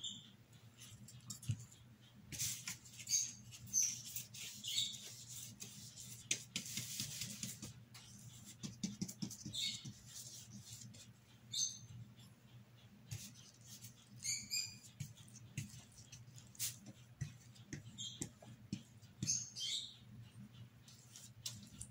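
Short high chirps from small birds every few seconds, over the soft scratching of a paintbrush spreading paint on cardboard.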